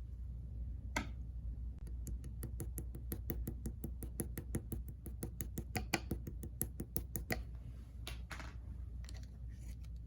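Clear slime being worked by hand, giving a quick run of crisp clicking pops, about six a second, then a few softer squishing sounds near the end.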